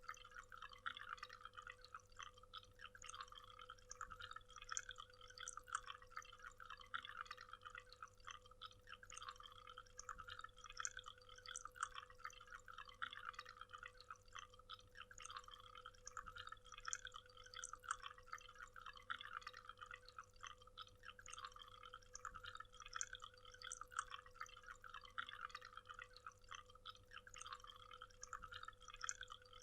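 Small waterfall: water splashing and trickling in a steady, dense patter of light splashes, faint and mostly high-pitched, with a faint steady hum underneath.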